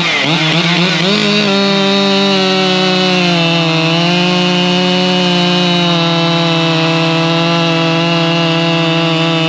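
Husqvarna 592 XP chainsaw running at full throttle. Its pitch wavers for the first second or so, then holds steady and high, sagging slightly about three to four seconds in.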